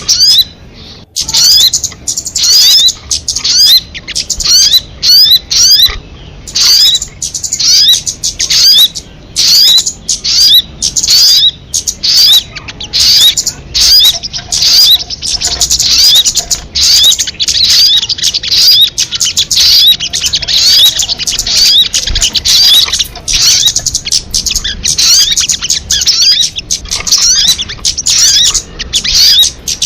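Recorded call of the sogon bird: rapid high chirps repeated without a break, with only brief pauses. This kind of recording is played as a lure or training call for birds.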